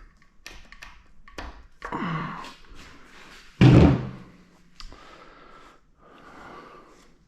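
Metal engine parts and hand tools being handled on an engine under teardown: scattered clicks, clanks and short scrapes, with one heavy thunk about three and a half seconds in.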